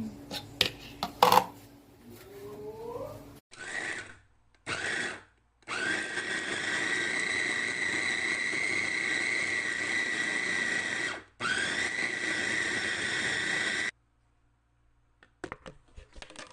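Electric food processor / meat grinder motor run in pulses: a few clicks, two short bursts, then a steady whining run of about five seconds, a brief stop, and another run of about two and a half seconds before it switches off. The whine rises each time the motor spins up.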